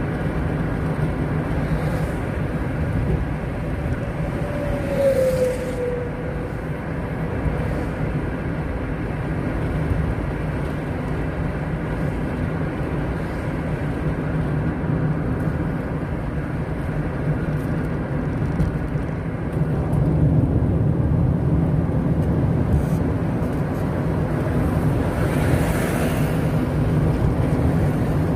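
Steady road noise of a moving car: low engine and tyre rumble. A brief falling tone comes about five seconds in, and a short hiss swells near the end.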